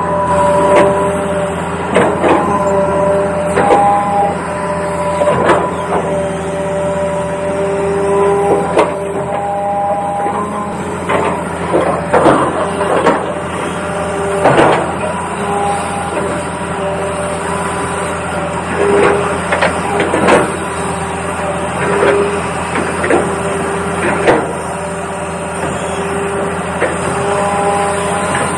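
Toy RC excavator's small electric motors whining in short spells as it moves its arm and tracks, with frequent plastic clicks and knocks over a steady low hum.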